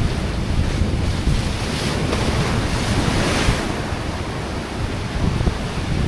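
Sea waves washing against shore rocks with wind buffeting the microphone; a wave surges and breaks about two to three and a half seconds in.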